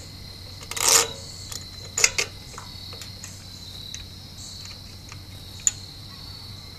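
Crickets chirping steadily. Over them come a brief loud scrape about a second in and a few sharp clicks as metal carburetor parts and fasteners are handled.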